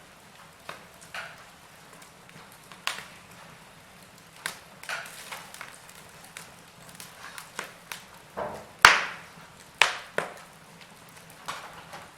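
Wood fire in a fireplace crackling: irregular sharp pops and snaps over a faint steady hiss, the loudest pop about nine seconds in.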